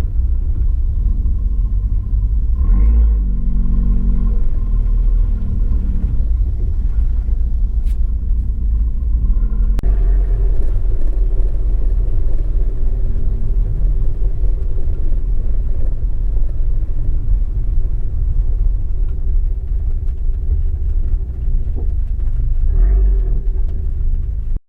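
Abarth 595 esseesse's turbocharged four-cylinder engine running hard through its Akrapovič exhaust, its note rising and falling a few times with throttle and gear changes over a heavy low rumble. It is picked up by a microphone in the car's boot, mixed with road and wind noise.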